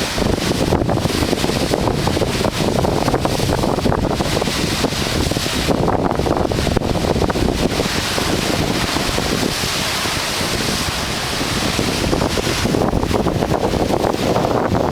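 Strong wind buffeting the microphone over rough surf, a steady, loud roar of noise that swells and eases slightly, in the heavy sea left behind by a passing typhoon.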